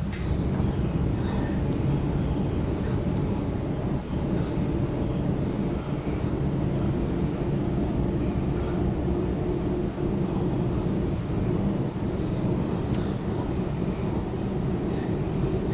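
Steady low rumble of a Waratah Series 2 electric passenger train running between stations, heard from inside the carriage: wheels and running gear on the track at an even speed.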